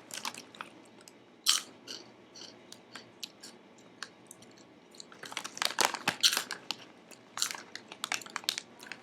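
Crunchy snack chips being bitten and chewed, close to the microphone: a run of sharp crunches, one loud one about a second and a half in and a dense cluster from about five and a half to eight and a half seconds in.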